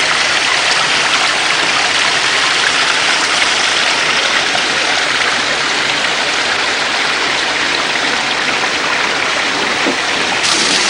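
Man-made, pump-fed garden waterfall: a steady, loud rush of water pouring and splashing.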